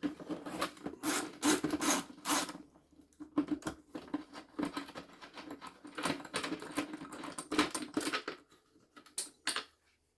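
A tool undoing a 10 mm bolt on a vacuum cleaner's plastic housing: irregular clicks, rattles and scraping that stop shortly before the end.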